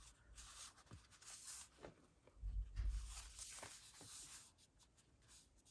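Paper rustling and sliding in two stretches as a piece of journal paper is handled and fitted against a page, with a soft bump near the middle.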